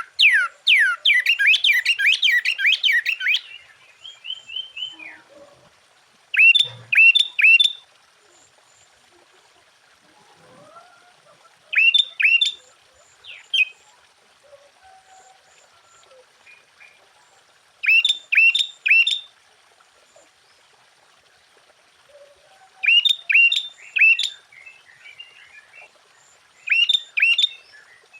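Sooty-headed bulbul (kutilang) singing: a fast run of quick falling notes at the start, then short bursts of three or four loud, clear notes repeated about every five to six seconds.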